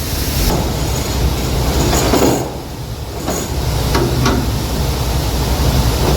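Steady low rumble and rattle of soybeans pouring out of a grain hopper trailer's gates into an elevator dump pit, with a few brief knocks and clatters through it.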